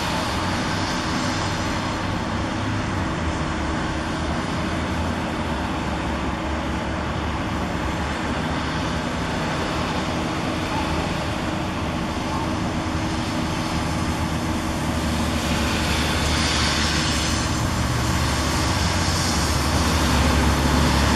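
Steady city traffic noise with a low engine hum, growing a little louder near the end.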